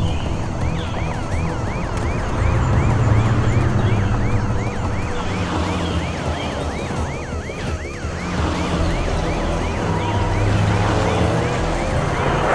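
Cartoon police car siren yelping in fast repeated sweeps, about three a second, over a low vehicle engine rumble; the siren stops about eight seconds in.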